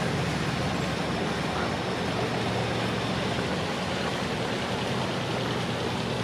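Engine of a river cruiser running steadily, a low hum under a constant hiss.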